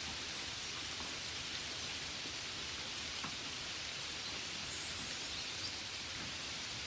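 Gentle rain falling, a steady even hiss with a faint drop tick about three seconds in.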